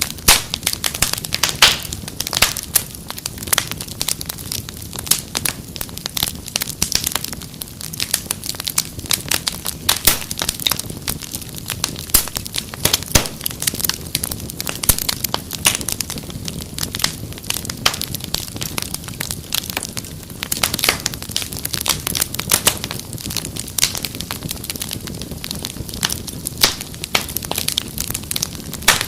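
Wood fire crackling and popping: many irregular sharp snaps, some louder than others, over a low steady rumble of the flames.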